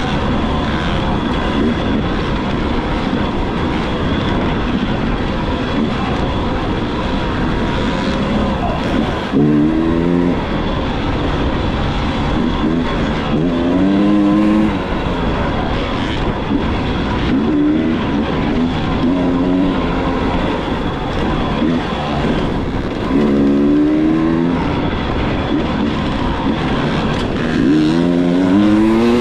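Dirt bike engine running under a steady rushing noise, revving up in rising sweeps about five times as the rider accelerates.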